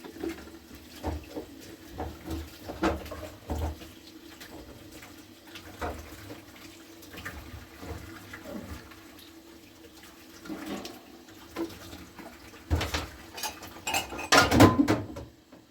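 Kitchenware knocking and clattering with water, as in washing by hand, in irregular bumps that grow to a louder burst of clatter near the end.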